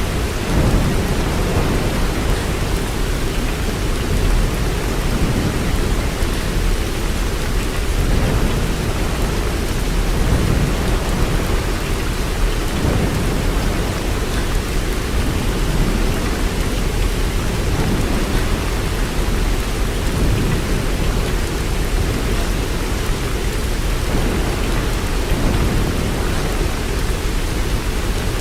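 Steady heavy rain, a dense even hiss, with a deep low rumble underneath that swells and fades.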